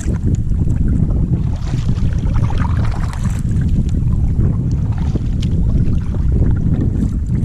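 Wind buffeting the microphone in a steady low rumble while out on the water in a kayak.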